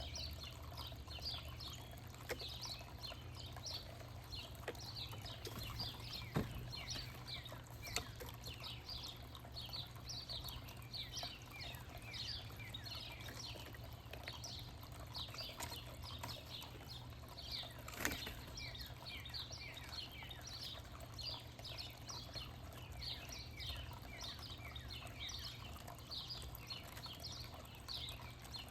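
Many small backyard birds chirping at once: a dense, continuous run of short, quick, falling chirps over a steady low hum. A few sharp taps stand out, the loudest about six and eighteen seconds in.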